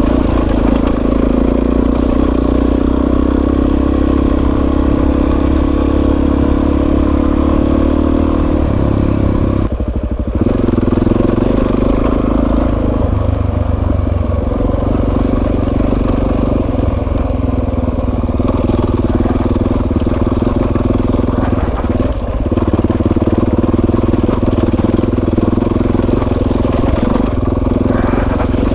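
Suzuki DR-Z400S single-cylinder four-stroke engine running as the motorcycle is ridden, heard from on the bike. Its note holds steady, then dips briefly and changes about nine to ten seconds in, and shifts a few more times after that.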